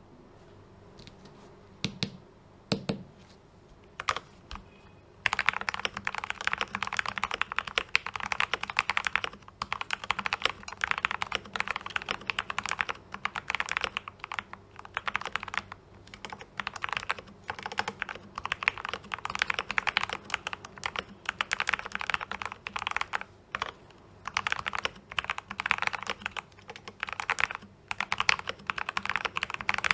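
Typing on a Yinchen D84 84-key mechanical keyboard with Gateron Brown tactile switches. A few separate keystrokes come first, then about five seconds in it turns to fast, continuous typing.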